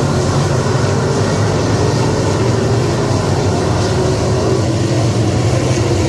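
Dirt-track modified race car engines running at speed, a loud, steady, continuous drone.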